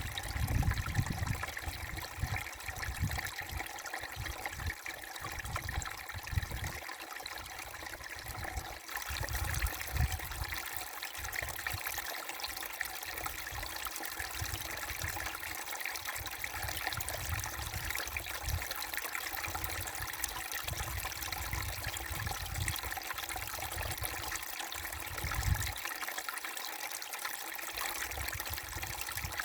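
Small brook babbling and trickling steadily over stones, with an intermittent low rumble underneath.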